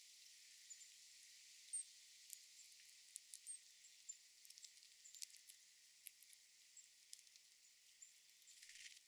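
Faint garden ambience: a steady high hiss with scattered short, very high peeps from small birds and a few light ticks.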